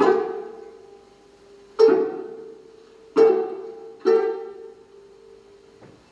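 Music from a plucked string instrument: four sharp notes on much the same pitch, each ringing away before the next, with a faint fifth stroke near the end.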